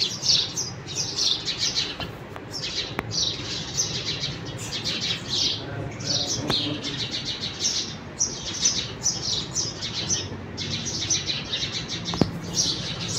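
Many small birds chirping, high chirps in quick runs with hardly a break.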